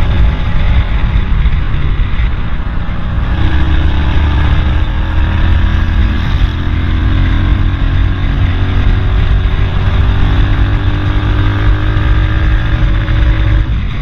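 Road traffic: motor vehicle engines running and passing, under a heavy, steady low rumble, with pitch glides from engines speeding up and slowing down.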